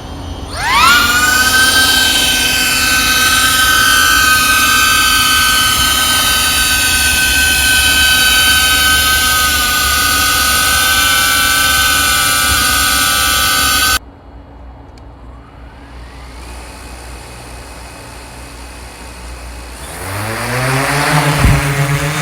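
Quadcopter drone's electric motors and propellers spinning up with a quickly rising whine, then holding a steady high whine of several close tones that cuts off suddenly about two thirds of the way through. A quieter hum follows, and near the end the motors spool up again with a rising whine.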